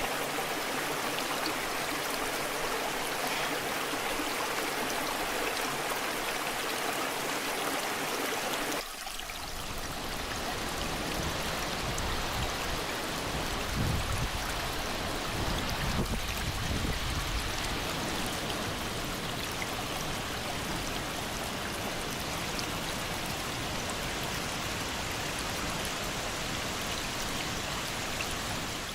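Waterfall water rushing and splashing steadily. About nine seconds in, the sound switches abruptly to a deeper, lower-pitched flow with a couple of brief swells, as if a different stretch of water took over.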